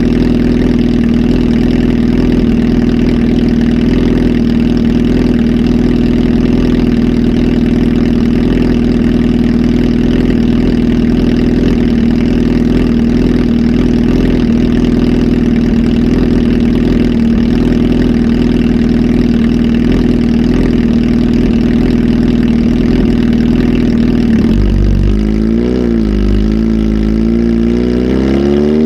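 Kawasaki Z H2 SE's supercharged inline-four, flash-tuned and fitted with a full exhaust system, idling steadily, then revved near the end, the pitch rising and falling twice.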